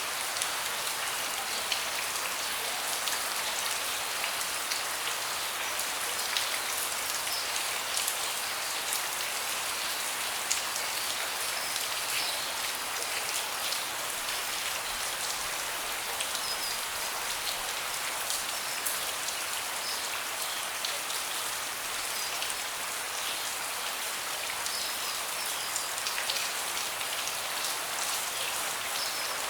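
Steady rain falling on a deck, a dense even patter with individual drops ticking throughout.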